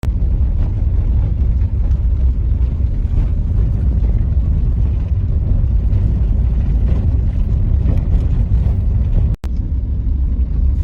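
Steady low rumble of a vehicle driving on a snow-covered highway: road and engine noise. It cuts out for an instant about nine seconds in.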